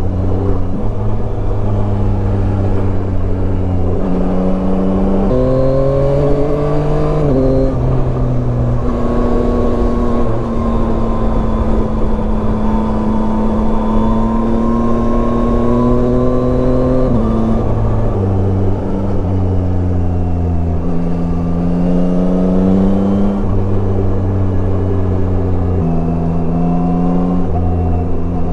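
Yamaha Tracer 9's 890 cc three-cylinder engine running under way. Its note holds, drifts slowly and jumps in pitch several times as the revs change, over a steady rush of wind and road noise.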